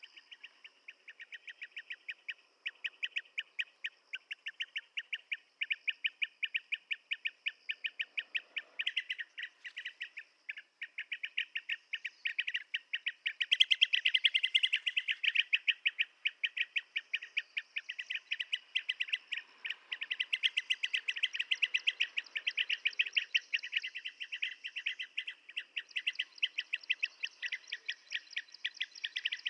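Blue-tailed bee-eaters calling: an unbroken run of quick, short chirping notes, many each second, growing louder and denser a little under halfway through.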